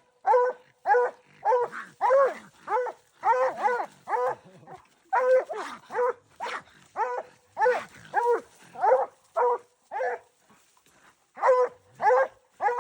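Coon-hunting dog barking over and over in short, sharp barks, about two a second, with a brief pause near the end.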